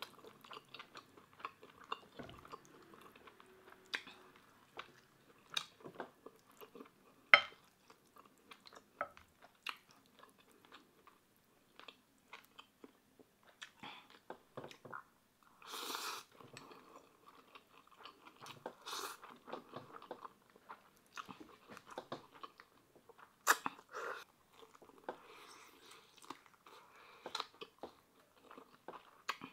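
Close-up chewing and wet mouth smacks of someone eating Chapagetti noodles and fried pork belly, with many scattered sharp clicks and a brief, louder noisy burst about halfway through.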